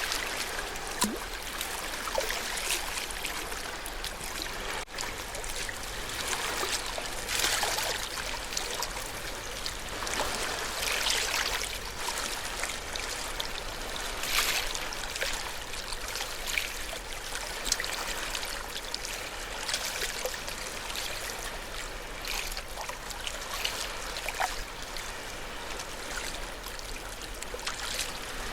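Ocean waves washing on the shore: a steady wash of water with splashing surges every three to four seconds.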